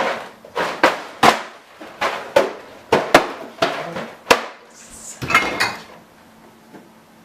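A quick, uneven series of sharp knocks or clacks, about a dozen in four and a half seconds, ending in a short clattering cluster, then stopping.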